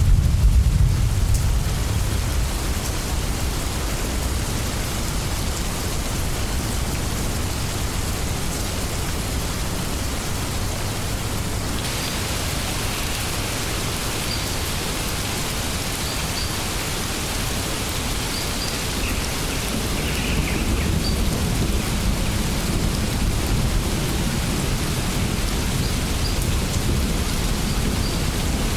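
Steady heavy rain with low rumbling thunder, loudest right at the start and swelling again in the second half. About twelve seconds in, the rain turns brighter and hissier, and faint short high chirps recur every couple of seconds.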